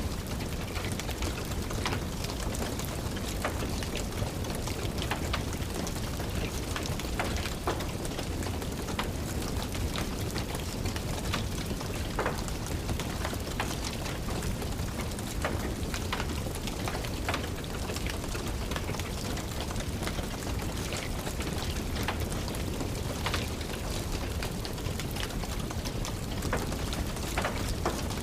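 Steady rain together with a wood fire crackling, its sharp pops and snaps scattered irregularly over the rain.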